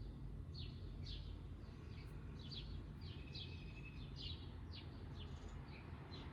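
Small birds chirping, short high falling chirps at about two a second with one brief held whistle midway, over a faint steady low hum.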